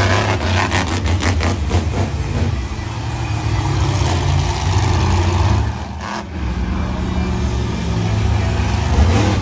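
Monster truck engine running loud at high revs, with a brief drop in level about six seconds in.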